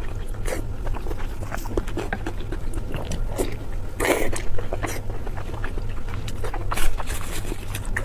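Close-miked eating sounds: a person biting and chewing, with many small mouth clicks and smacks and a louder noisy burst about four seconds in, over a steady low hum.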